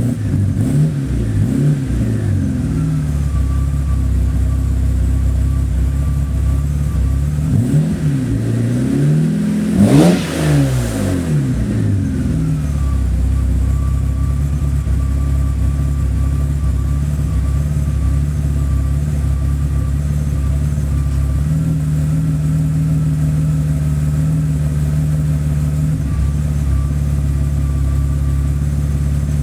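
BMW 850 (E31) V12 idling, with a few short throttle blips in the first couple of seconds. About ten seconds in, one larger rev climbs and drops back to a steady idle.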